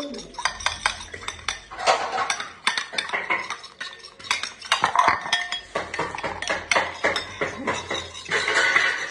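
Eggs being beaten with a metal spoon in a bowl: quick, uneven clinks of the spoon against the bowl.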